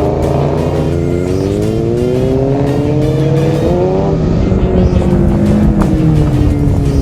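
Kawasaki Ninja 650 parallel-twin engine accelerating, its pitch climbing steadily for about three seconds, then easing off and winding slowly down as the bike slows, over a steady rush of wind and road noise.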